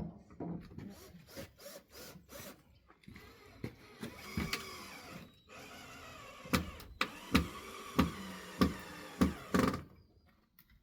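A cordless drill running briefly, then about six hammer blows, roughly one every half second or so, driving fasteners into pallet wood.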